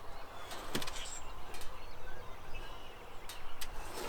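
Birds chirping faintly, with a few sharp clicks and a low steady hum underneath.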